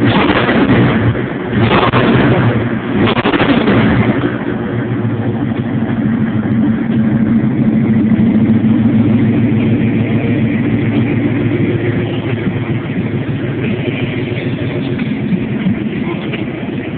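A 1993 Dodge Ram pickup's engine running steadily, with three short, loud bursts of noise in the first four seconds.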